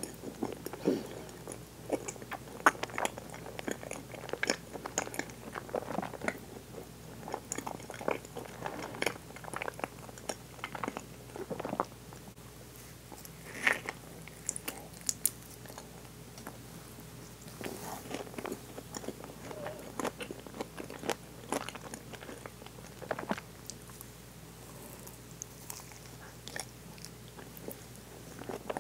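Close-miked biting and chewing of a soft, cream-filled mochi sweet: wet mouth sounds and lip smacks, irregular and unbroken by talking.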